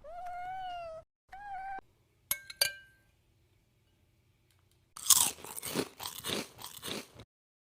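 A cat gives two short meows, then there are a few sharp clicks with a brief ring. After that, about two seconds of loud crunching chewing follow.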